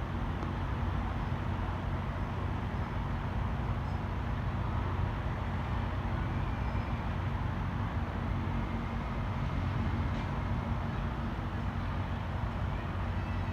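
Steady running noise of a vehicle: an even rumble with a low hum.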